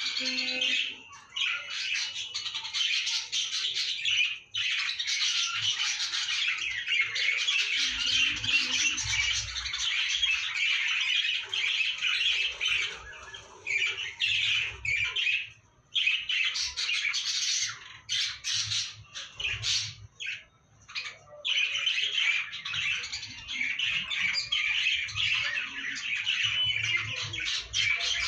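Lovebirds chattering: a dense, continuous stream of rapid, shrill calls, broken by a few brief pauses.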